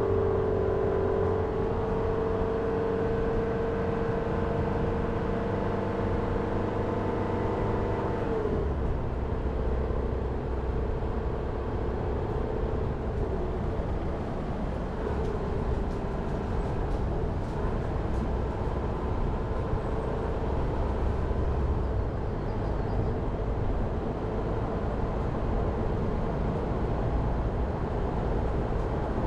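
Jeep Renegade driving on a mountain forest road: a steady engine drone over tyre and road noise. About eight seconds in the engine note drops and a lower rumble takes over for the rest of the drive.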